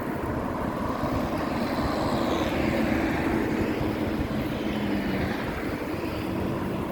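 A motor passing by, a steady engine hum over a rush of noise that swells to its loudest about three seconds in and then eases off.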